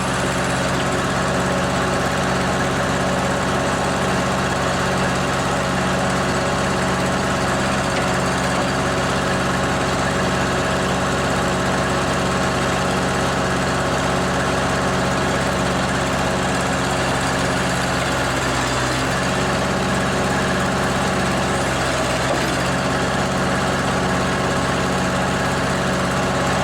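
Old tractor engine running steadily at a constant speed, with a low, even hum and no revving.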